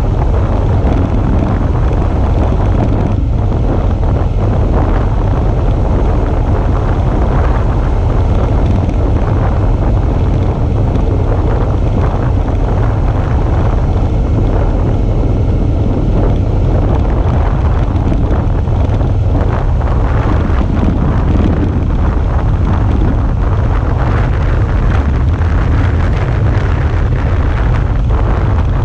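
Wind rushing over a GoPro camera's microphone on a moving Suzuki V-Strom 650 motorcycle, a steady heavy rumble that hides most of the bike's own engine sound.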